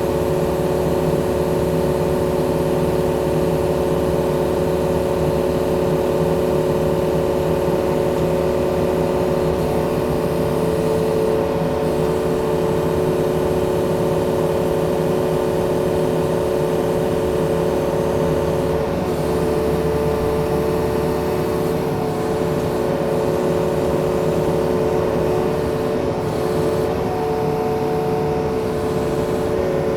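Yanmar diesel machine's engine running steadily at working speed, its note holding with small shifts a little past halfway.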